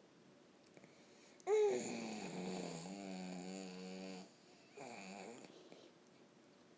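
A person making a silly vocal sound: a voice that swoops sharply down in pitch, holds a low note for a couple of seconds with a wavering wobble near the end, then a second, shorter falling sound.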